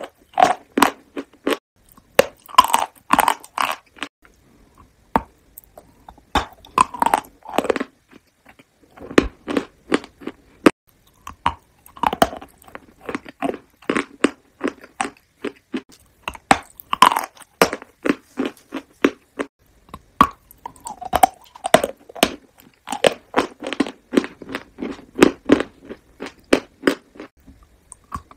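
Close-miked chewing and crunching of food, in bursts of crisp clicks and crunches a second or two long, with short pauses between mouthfuls.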